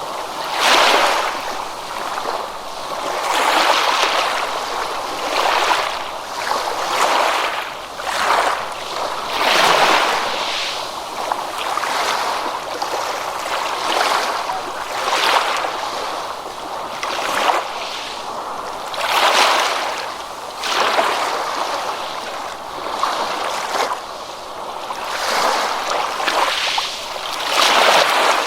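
Ocean waves washing in, swelling and fading about every two to three seconds.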